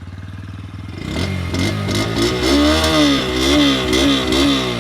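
Bajaj Pulsar N125's single-cylinder 125 cc engine running at idle through its underbelly exhaust, then blipped on the throttle about four times, the exhaust note rising and falling with each rev.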